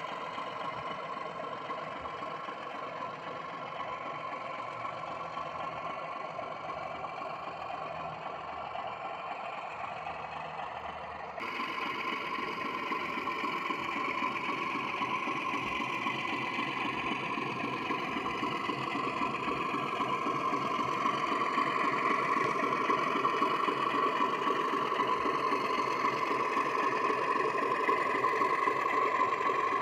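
Sound-fitted Accurascale Class 31 model diesel locomotive, its decoder speaker playing a steady diesel engine running sound. The sound changes abruptly about eleven seconds in, then grows gradually louder.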